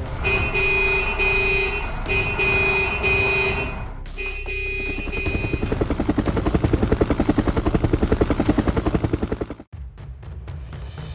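Cartoon vehicle sound effects: an electronic warning beep repeats steadily for about four seconds, then a fast pulsing motor sound at about eight beats a second builds up and cuts off suddenly near the end.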